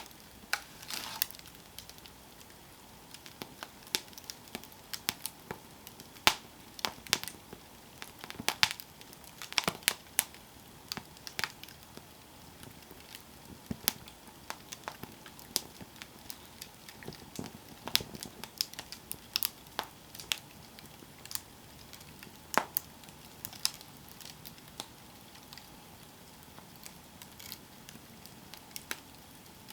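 Campfire burning, with irregular sharp crackles and pops of the wood over a soft steady hiss.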